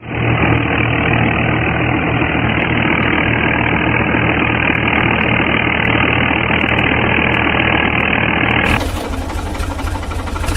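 Miniature diesel engine running steadily with an even chugging rhythm. The sound changes abruptly about nine seconds in.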